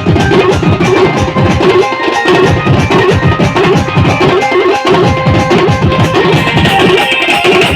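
Live band music from an Indian band party: fast, dense drumming with held melodic notes over it.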